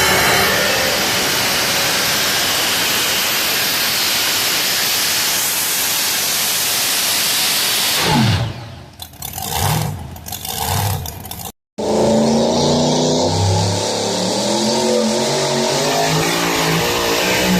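Two-wheel-drive pulling truck's engine running flat out under load, then the revs fall away about eight seconds in as the pull ends, followed by a few short throttle blips. After a brief break in the sound, a truck engine runs at low speed with an uneven beat.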